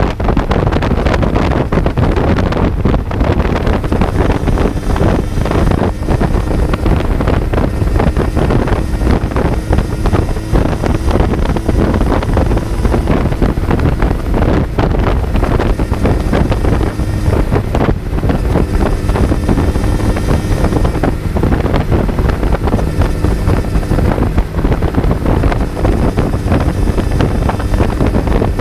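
Kawasaki Z900's inline-four engine running at speed, heard on board and largely buried under heavy wind buffeting on the microphone; the engine note holds for stretches and then shifts.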